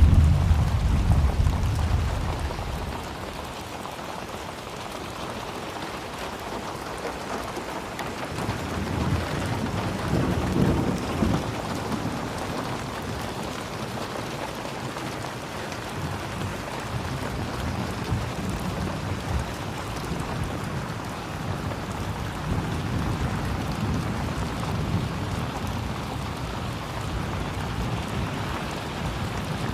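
Steady rain falling, with low rolls of thunder: one dying away in the first couple of seconds, another swelling and fading about a third of the way in.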